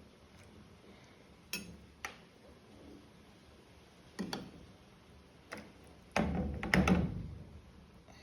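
A spoon clinking against a cooking pot in a few separate sharp taps, then a louder run of knocks and clatter near the end, as oil is skimmed off the soup.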